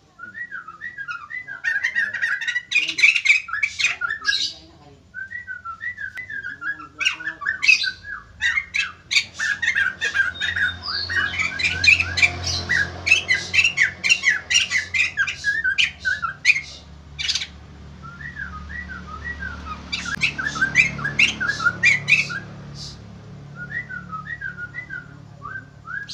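White-crested laughingthrush calling in fast, harsh chattering bursts of squawking notes, with brief lulls about five seconds in and again past the middle.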